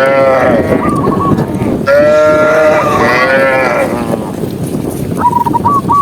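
Cattle mooing: two long calls, one at the start and a longer one about two seconds in. A bird gives short repeated whistled notes about a second in and again near the end.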